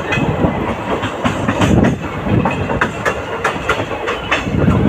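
Passenger train coaches rolling along the track, their wheels clicking and clunking over rail joints a few times a second above a steady rumble.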